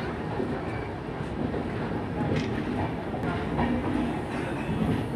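Freight train wagons running past close by on the next track: a steady rumble and rattle of steel wheels on rails, with a few sharp clacks.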